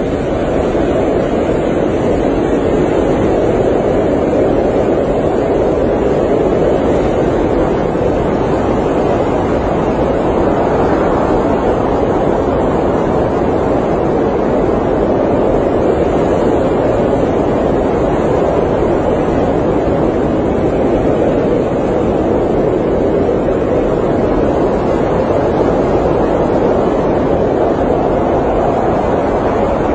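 Blizzard wind blowing steadily, a dense even noise that swells and eases slowly as gusts come and go.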